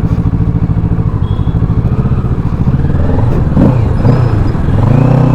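Kawasaki Ninja 650's parallel-twin engine running, its revs rising and falling several times in the second half as the bike pulls away.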